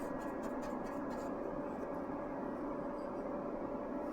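Light rapid scratching strokes over a steady hum; the strokes fade after about a second.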